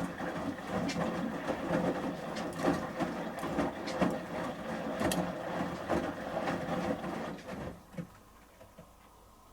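Samsung Series 5+ washing machine drum tumbling a load of shirts during the heated 30 °C wash phase, with many sharp clacks and knocks as the wet load turns. The drum stops about eight seconds in.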